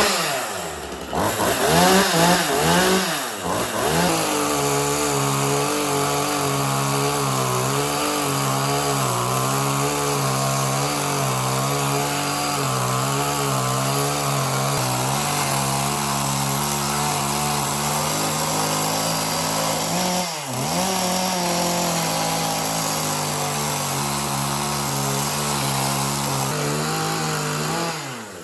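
Chainsaw revved a few times, then held running steadily at high speed, its pitch wavering slightly. The pitch dips briefly about 20 seconds in and recovers, and the saw drops off near the end.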